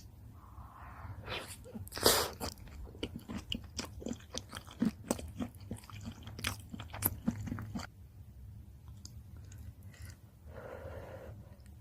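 A person chewing a mouthful of shrimp cream pasta, a quick run of mouth clicks lasting several seconds, loudest about two seconds in, then trailing off.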